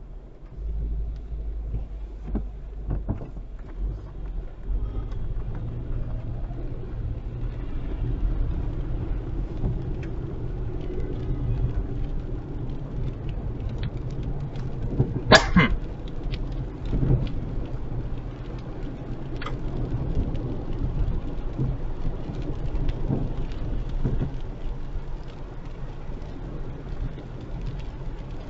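Heavy rain on a car driving through a storm: a steady low rumble of engine and road under many fine raindrop ticks. One sharp, loud knock about halfway through, with a couple of weaker knocks a few seconds after.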